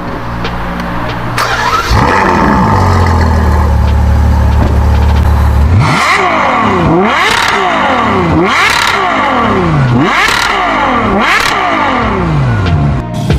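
A high-performance sports car engine holds a low steady idle, then is revved hard several times in quick succession, its pitch sweeping sharply up and dropping back with each blip.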